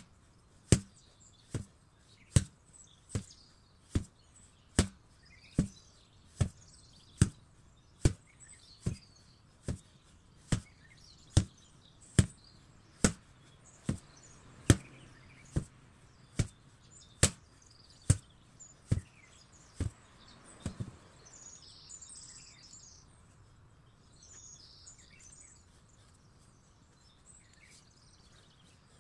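An 8 kg sledgehammer strikes a target again and again in an even rhythm, a little over one blow a second, and stops about two-thirds of the way through. Faint bird chirps follow.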